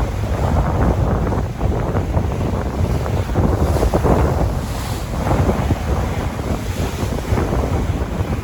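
Sea waves washing and surging, with wind buffeting the microphone in a heavy low rumble.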